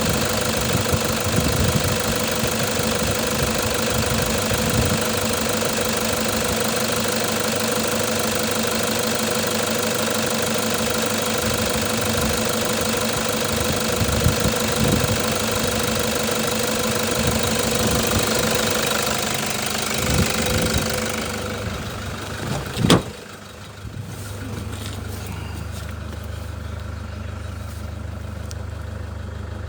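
Toyota Hilux 3.0 litre diesel engine running steadily for about twenty seconds. The sound then drops away, with a single sharp knock about 23 seconds in, after which only a quieter low hum remains.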